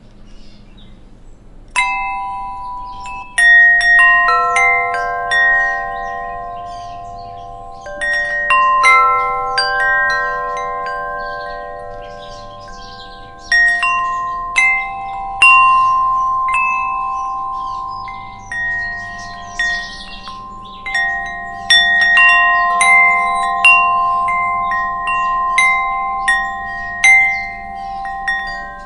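Wind chimes struck irregularly by the wind, starting about two seconds in: several pitched tones ringing on and overlapping, with a new strike every second or two.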